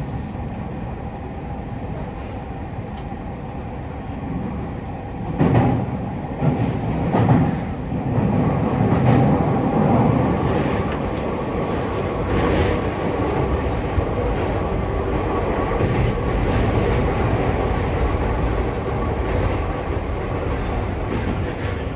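Tokyu 3020 series electric train running, a steady rumble with a faint steady tone and sharp clacks of the wheels over rail joints, growing louder about five seconds in.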